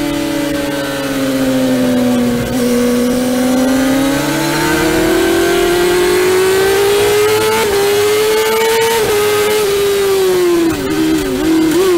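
Honda CBR600F inline-four engine at race pace, heard on board with wind rush. The engine note sags through a corner, then climbs hard with two quick upshifts about two-thirds through, and falls with short blipping dips near the end as the bike slows and changes down.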